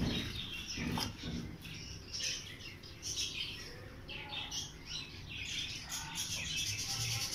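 Small birds chirping, many short overlapping chirps that grow busier after the first couple of seconds, with a couple of light knocks near the start.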